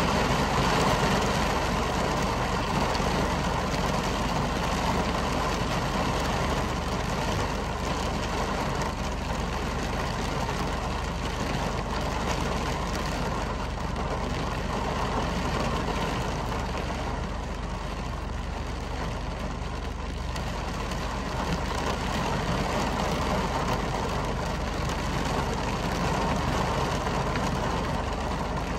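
Heavy rain falling steadily on window glass, an even hiss over a constant low rumble.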